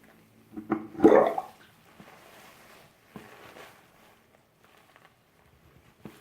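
Water and wet doll hair being handled during washing: a short loud splash about a second in, then fainter, scattered wet handling sounds.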